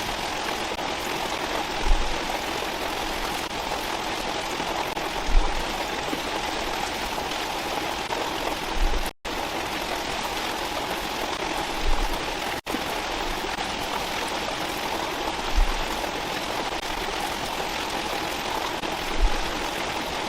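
Steady rushing water, like a stream running over rocks, with a low thump every three to four seconds. The sound cuts out briefly twice.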